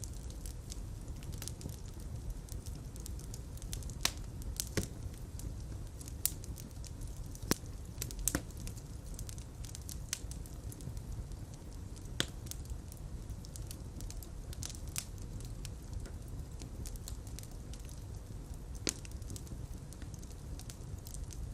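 Fire burning in a fireplace: irregular crackles and sharp pops over a steady low rumble, with a few louder pops scattered through.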